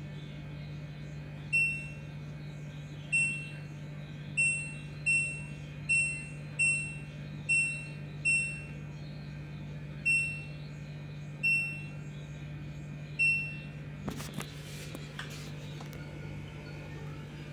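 LG F2T9GW9P washing machine control panel beeping as its buttons are pressed to set up the spin-only cycle: about eleven short, high beeps at uneven intervals, then a few light clicks near the end. A steady low hum runs underneath.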